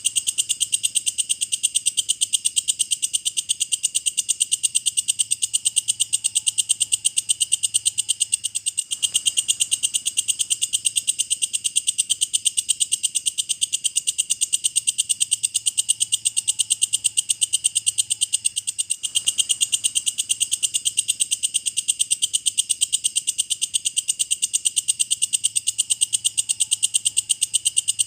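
Walang kecek (belalang kecek), an Indonesian singing grasshopper, calling in a fast, steady, even train of high-pitched chirping pulses, used as a master song for lovebirds.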